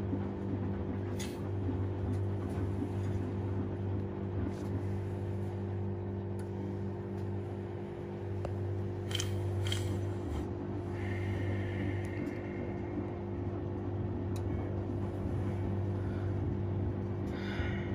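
Washing machine running with a steady motor hum, broken by a few brief swishes and clicks.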